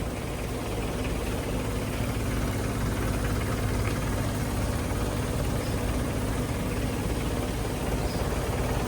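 Isuzu tractor head's 6WG1 inline-six diesel engine running steadily with an even low hum.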